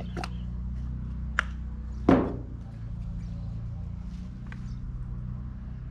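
A steady low hum with a few light clicks and taps and one louder thump about two seconds in.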